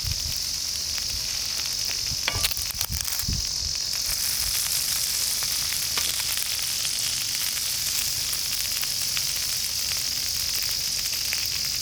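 Food frying in a pan: a steady sizzle with a few sharp pops and crackles a couple of seconds in.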